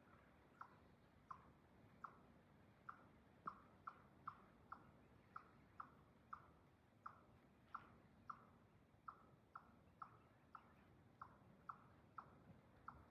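Faint, irregular clicking, about two sharp clicks a second.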